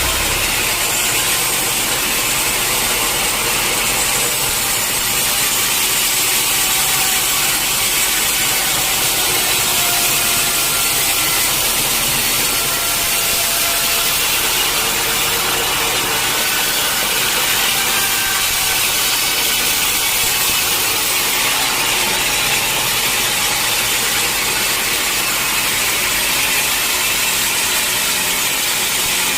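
Sawmill saw running steadily and cutting through a mahogany log, a continuous loud mix of saw noise and machine drone with no pauses.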